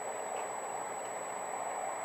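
Steady in-car vehicle noise, an even hum of engine and road, with a thin high-pitched whine held throughout.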